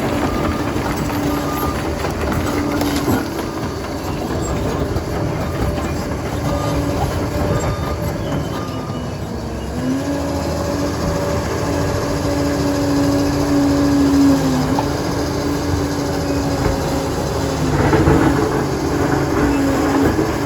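Liebherr PR 746 crawler dozer working: its diesel engine runs steadily under the clatter of the tracks, and the engine note shifts slightly about halfway through. Short repeating beeps sound over it for roughly the first eight seconds, and the sound grows louder and rougher near the end.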